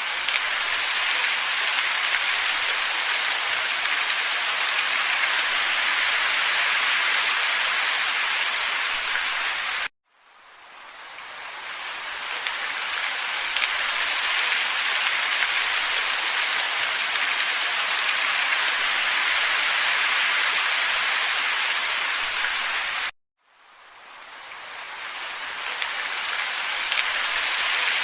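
Steady hissing wind ambience. It cuts out abruptly twice and each time fades back in over a few seconds.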